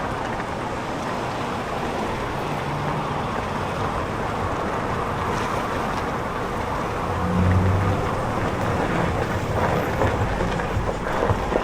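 Steady rush of wind and street traffic heard while riding, with a low hum that swells briefly about two-thirds of the way through.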